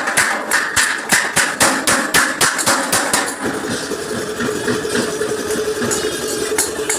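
Rapid hammer blows on a truck's steel front bumper as a dent is beaten out, about four strikes a second, stopping a little over three seconds in. A steady engine-like hum with a held tone takes over after the hammering.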